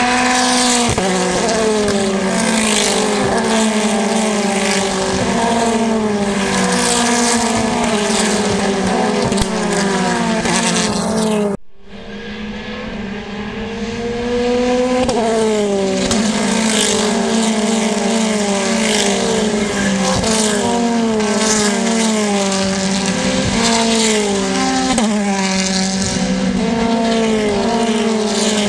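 Racing cars at full throttle passing in succession, their engine notes climbing and dropping sharply again and again through gear changes. The sound cuts off abruptly about twelve seconds in, then builds again as more cars come through.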